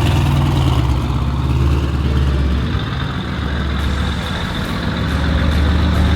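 A car engine running steadily with a deep low rumble, easing slightly about halfway through.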